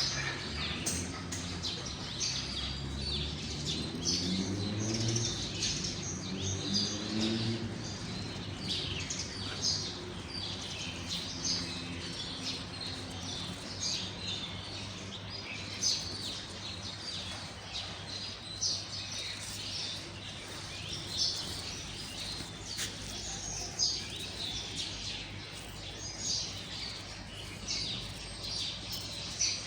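Several small birds chirping, with many short, high chirps repeating across the whole stretch. A faint low pitched sound lies under them for roughly the first ten seconds.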